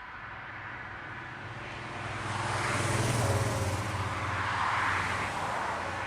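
Jet noise from the Airbus A340-300's four CFM56 turbofans passing on the takeoff run. It swells about two seconds in, stays loud for a few seconds with a low hum underneath, then eases off near the end.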